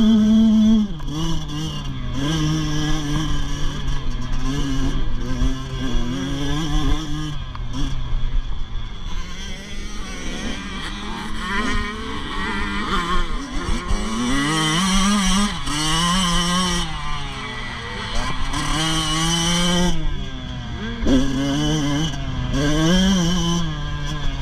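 Motocross bike engines racing around a dirt track, the pitch climbing and dropping again and again as the riders throttle up and back off.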